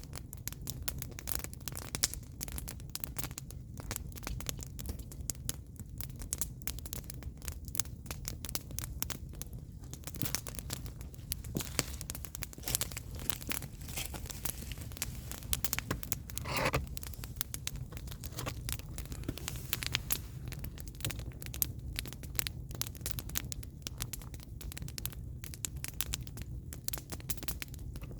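Firewood burning in an open fire, crackling and popping in quick irregular snaps over a steady low rumble. About two-thirds of the way through there is a brief half-second hiss.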